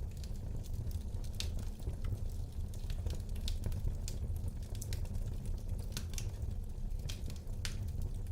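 Fire burning in a fireplace: a steady low rumble of flames with irregular sharp crackles and pops, about two a second.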